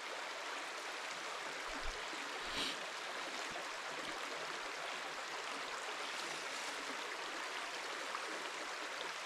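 Small stream flowing steadily, an even rushing of water.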